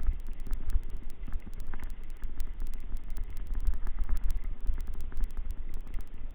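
Gusty low rumble of wind buffeting the microphone, with many small clicks and rattles scattered through it.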